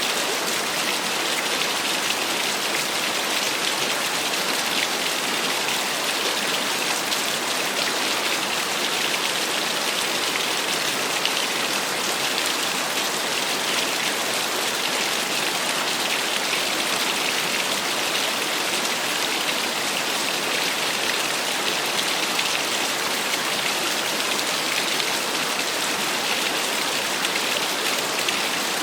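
Small waterfall splashing steadily, an even hiss of falling water that stays unchanged.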